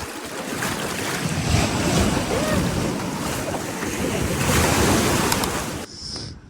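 Ocean surf washing in, with wind buffeting the microphone; the noise cuts off suddenly near the end.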